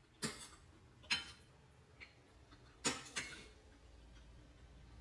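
A spoon clinking against a bowl: a handful of short, sharp clinks roughly a second apart.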